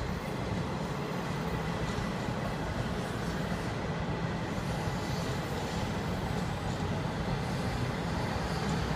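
Passenger sleeper coaches rolling slowly along the rails while being pushed by a locomotive, a steady low rumble of wheels on track.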